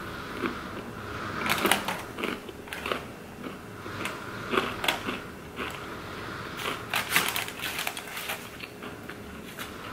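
Close-up crunching and chewing of a bite of pizza topped with crispy hot Cheetos. The crunches come in clusters: about a second and a half in, near the middle and about seven seconds in.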